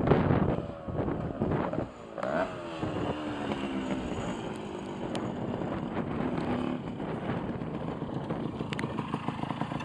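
Yamaha FS1E moped's small two-stroke single-cylinder engine being ridden. It revs with a quick rise in pitch about two seconds in, then runs on steadily and quieter, its note slowly sinking.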